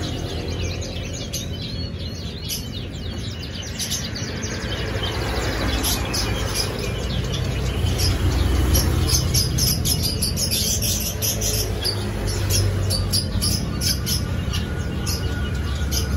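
Small birds chirping rapidly, the chirps growing much denser about five seconds in, over a low steady rumble.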